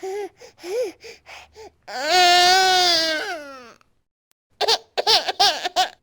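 Baby crying in a rage: a run of short gasping sobs, then one long wail of over a second about two seconds in, a brief pause, and a burst of quick short cries near the end.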